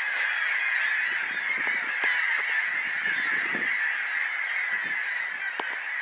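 A large flock of gulls calling all at once: many overlapping squawks merge into one continuous chorus.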